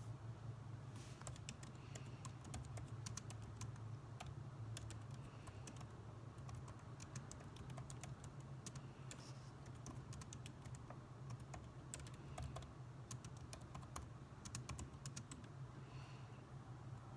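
Typing on a computer keyboard: irregular runs of faint keystroke clicks, with short pauses, over a steady low hum.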